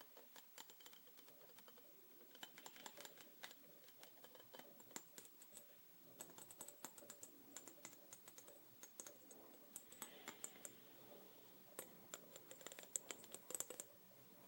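Quiet, quick, irregular tapping and clicking, many small taps a second, growing denser in the middle and again near the end.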